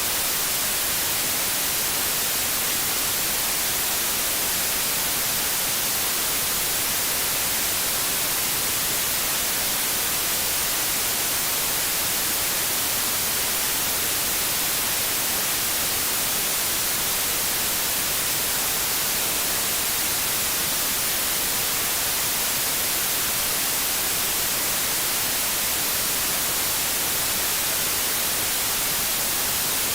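Television static: the steady, even hiss of an untuned TV, brightest in the treble and unchanging throughout.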